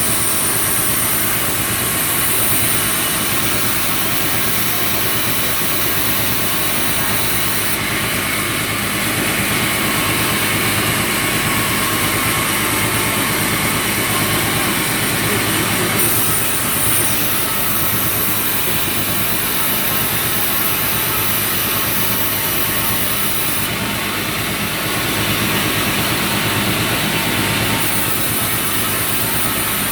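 Sawmill saw running steadily, with a high-pitched whine that drops away and comes back several times.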